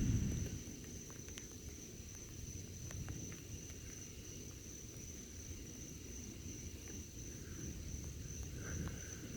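The tail of a thunder rumble dies away in the first half-second, leaving a steady high-pitched chorus of late-summer night insects such as crickets over a faint low rumble.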